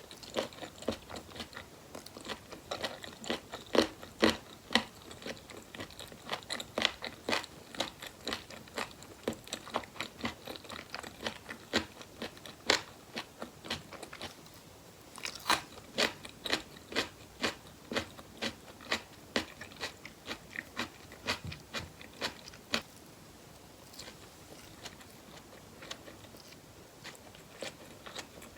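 Close-miked eating sounds: chewing and biting on spicy boneless chicken feet, with quick runs of sharp, crunchy clicks that thin out near the end.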